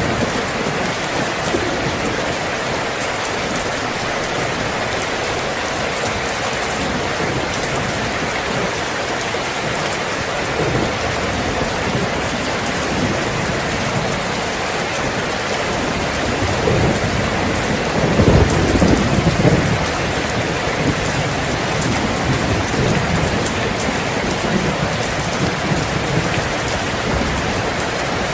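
Steady heavy rain falling, with a low rumble of thunder swelling up about two-thirds of the way through.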